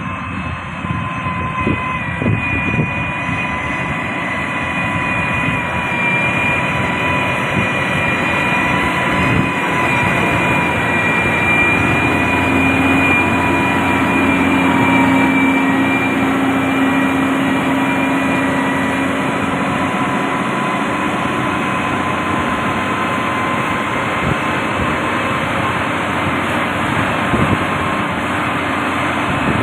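Heavy road-construction machine's diesel engine running steadily at work, with a steady high whine over the engine noise and a few faint knocks.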